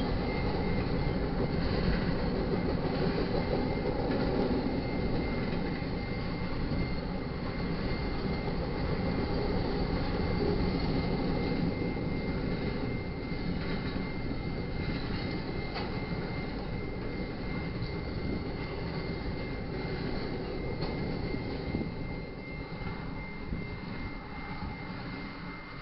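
Double-stack intermodal freight cars rolling past on the rails, a steady rumble of wheels and cars. The rumble fades as the last cars go by near the end. A thin steady high tone runs above it.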